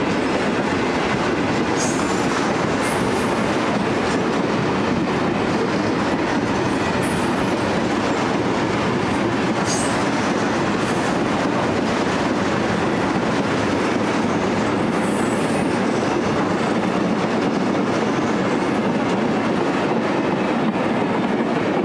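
Wheels of a long container freight train's flat wagons rolling past on the rails: a steady rolling clatter, with brief high wheel squeals now and then.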